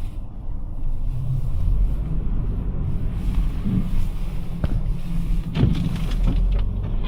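Toyota RAV4 Prime on Blizzak snow tires driving off through snow, heard from inside the cabin: a steady low road and tyre rumble that builds in the first second and holds.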